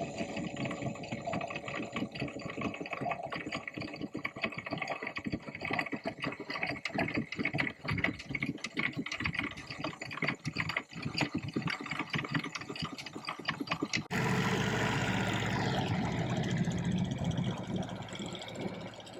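Small outboard motor running unevenly, with rapid irregular pops. About 14 seconds in it cuts to a steadier, lower engine drone.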